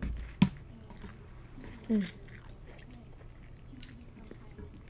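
A person eating noodle soup, with soft, close chewing sounds. There is one sharp click about half a second in, and a short falling voiced sound, like a brief hum, around two seconds in.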